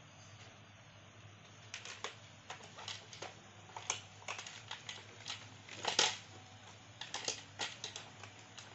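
Irregular light clicks and taps of plastic parts being handled, a dozen or so spread unevenly, the loudest about six seconds in, over a faint steady hum.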